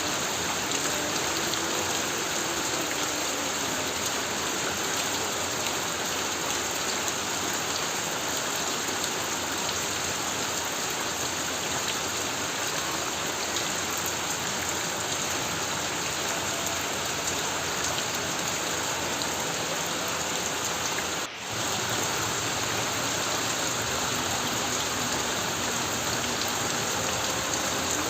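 Heavy rain falling on a corrugated tin roof: a dense, steady rush of drumming drops, with one brief dip in level about three-quarters of the way through.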